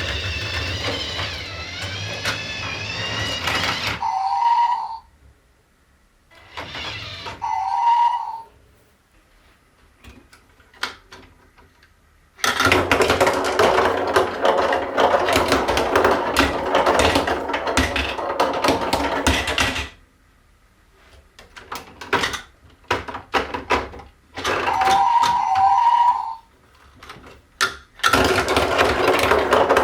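Lego Duplo toy train and plastic marble run: short electronic tones and a wavering whistle-like sound, then long stretches of dense clattering and rattling with scattered clicks between them.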